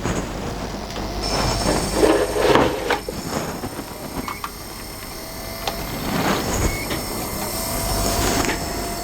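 DVD drive of an LG VCR/DVD combo spinning up and reading a disc: a continuous mechanical whirring and rattling with scattered clicks, and a faint gliding whine in the second half.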